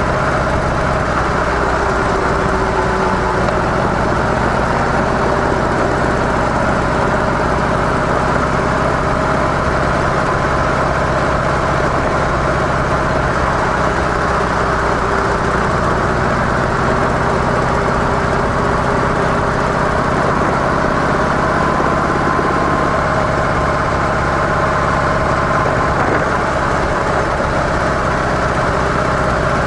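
Harley-Davidson CVO Softail's 45-degree V-twin running steadily through stock mufflers, holding an even pitch with no revving.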